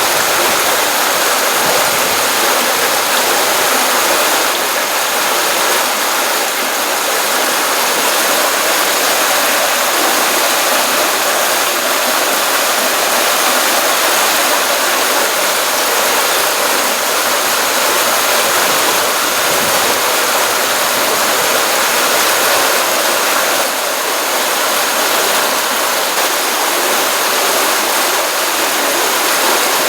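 Stream water running and splashing, a steady continuous rushing hiss without change.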